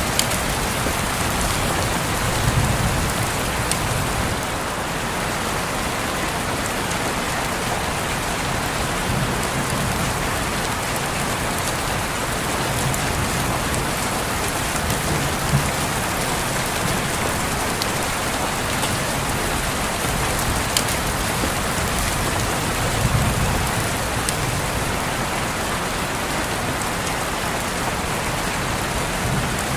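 Steady rain pattering on a window, with scattered sharper drop hits and a few brief low rumbles.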